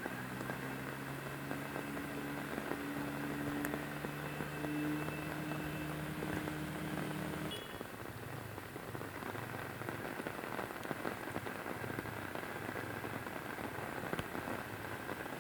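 Steady patter of rain, with a low engine hum underneath that cuts off abruptly about halfway through.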